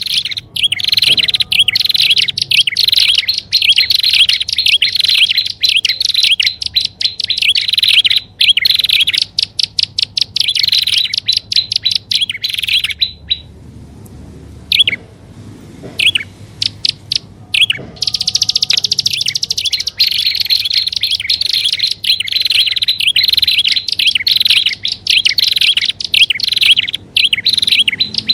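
Prinias (prenjak) calling in rapid, continuous chirping trills, a bird-lure recording of several birds. The calling thins to a few scattered notes for several seconds around the middle, then resumes with a dense, fast trill.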